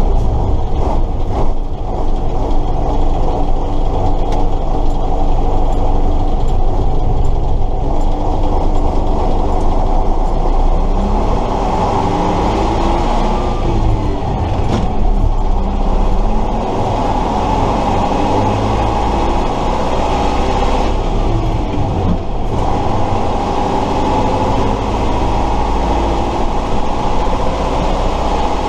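Tatra 138 fire truck's air-cooled V8 diesel driving under way, heard with the rattle and gear noise of the truck around it. Its note rises and falls in the middle of the stretch, with two brief dips about halfway and about three quarters through.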